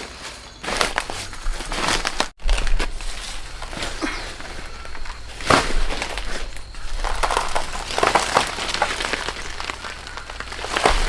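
Irregular crunching and rustling, many short crackly noises in quick succession, broken by an abrupt cut about two seconds in.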